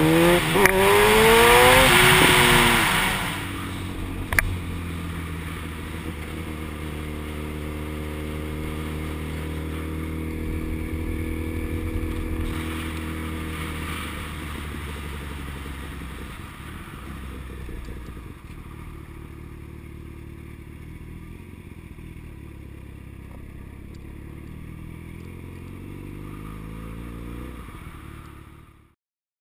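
Yamaha FZ1 inline-four motorcycle engine on the move. It pulls hard at first, with the pitch climbing and a loud rush of wind on the microphone. Then it settles into a steady cruise that is a little quieter from about two-thirds through, with one sharp click about four seconds in, and the sound cuts off suddenly just before the end.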